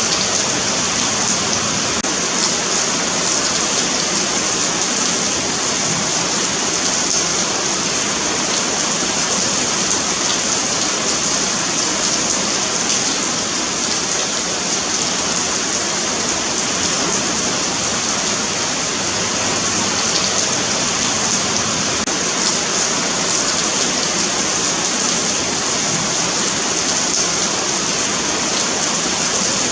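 Rain falling steadily on a paved sidewalk: an even, continuous hiss of water on concrete.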